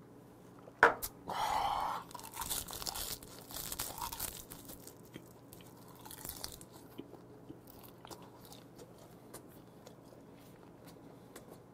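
Close-up mouth sounds of eating a saury gwamegi wrap with raw scallion and garlic. A sharp click comes about a second in, then a short breathy sound. Crunchy bites follow over the next couple of seconds and settle into softer chewing.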